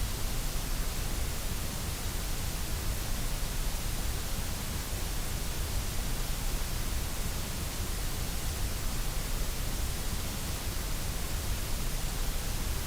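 Steady, unbroken white noise: an even hiss spread across all pitches, with a strong low rumble beneath it, that does not change.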